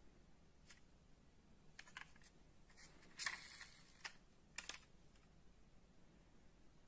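Small, sharp clicks and a brief rattle from die-cast metal model cars being handled, scattered through an otherwise quiet stretch; the loudest clatter comes about three seconds in.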